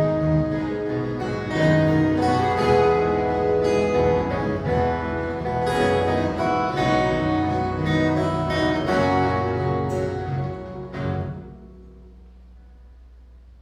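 An ensemble of viola caipira, the ten-string Brazilian country guitar, playing a piece with bright, ringing plucked notes. The music dies away about eleven seconds in, leaving a faint low hum.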